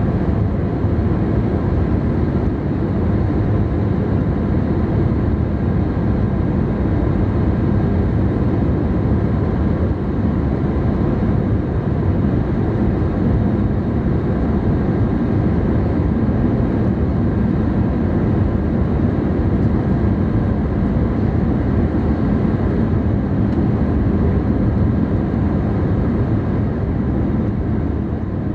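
Steady, loud cabin noise of an Airbus A320 in flight after takeoff: the jet engines and rushing air make a deep, even noise, easing slightly near the end.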